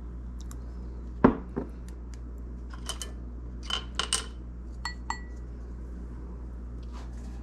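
Bar tools and glassware being handled: a sharp knock about a second in, then a string of light metal-and-glass clinks, a couple of them ringing briefly.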